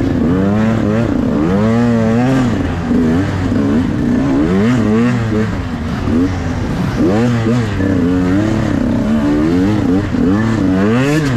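Dirt bike engine revving, its pitch rising and falling repeatedly as the throttle is worked and the gears change.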